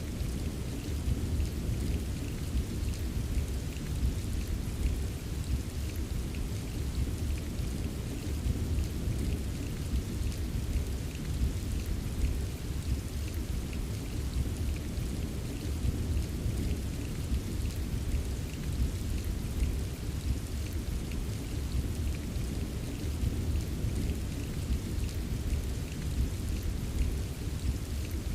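Steady, unbroken rain ambience: a constant hiss of rainfall over a deep low rumble, with fine pattering drops on top.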